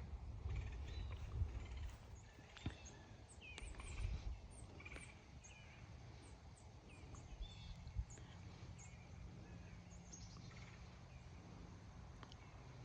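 Small birds chirping: many short, high notes scattered throughout, over a low rumble that is heavier in the first two seconds, with a few faint knocks.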